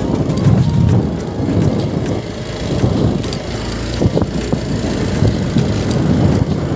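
Motorcycle running while being ridden: a steady, rough low rumble with scattered clicks and knocks.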